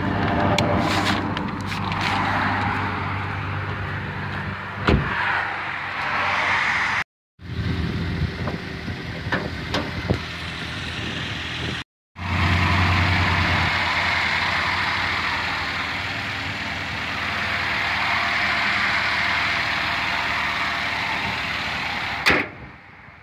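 2007 Toyota Yaris's 1.5-litre four-cylinder engine idling steadily and smoothly after a start-up, with a sharp click about five seconds in and another near the end. The sound drops out briefly twice at edit cuts.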